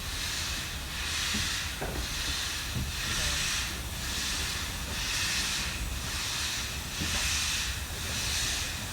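Exhaust of the two-cylinder Ivatt Class 2 2-6-0 steam locomotive No. 46512 working a train: slow, even chuffs about once a second over a steady low rumble of the moving train.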